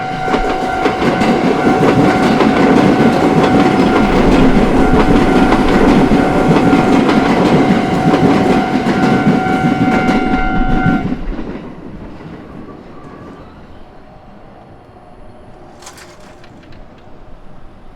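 A train passes over a railway level crossing, its wheels clattering over the rail joints, while the crossing's electronic warning bell rings steadily. About eleven seconds in, the bell stops as the train clears, and the train sound fades away.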